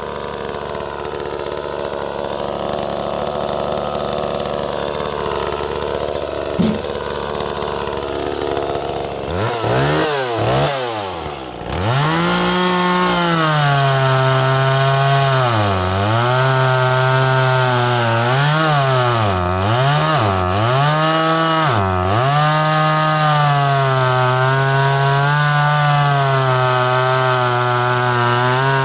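Small 30cc Echo chainsaw cutting wood. The engine pitch wavers under load, swings up and down quickly a few times about ten seconds in as the throttle is blipped, then holds high revs with several dips in pitch as the chain bites into the wood.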